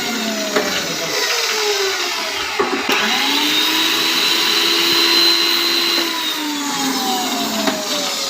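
Single-phase electric motor of a steel bar bending machine running, its whine sinking in pitch as it slows, then a clunk about two and a half seconds in. The whine climbs back up quickly, holds steady and sinks again near the end, as the machine works through a bend.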